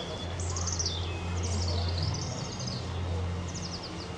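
Small songbirds singing high, rapid trilled phrases, one near the start, one in the middle and a short one near the end, over a steady low hum.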